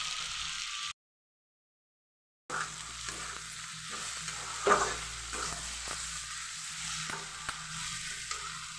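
Potato and cauliflower pieces sizzling as they fry in a pan, stirred with a steel spatula that scrapes and knocks against the pan. One sharper scrape about halfway through is the loudest sound. All sound drops out for about a second and a half, starting about a second in.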